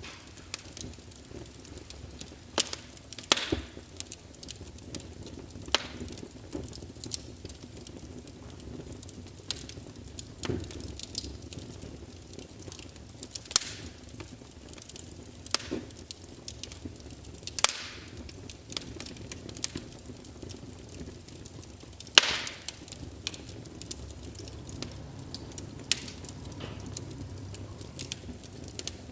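Wood fire crackling in a fireplace: irregular sharp pops and snaps, a few louder ones, over a low steady rush of the flames.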